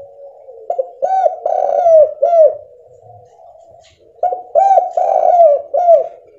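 Spotted dove (tekukur) cooing in two phrases, each of four or five short coos that rise and fall in pitch, about three seconds apart.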